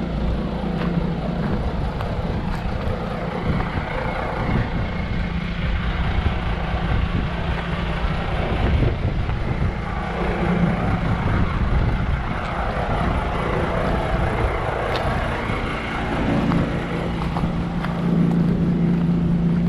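Vehicle engine running steadily, a continuous drone with a low hum that swells about ten seconds in and again near the end.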